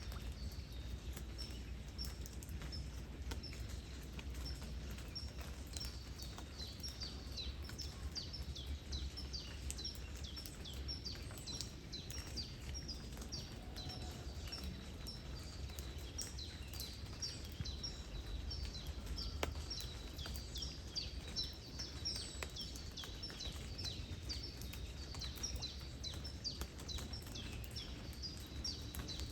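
Nature ambience of light rain by a river: a steady low rumble of wind and flowing water, with scattered light drop ticks. Small birds chirp in quick, repeated high notes throughout.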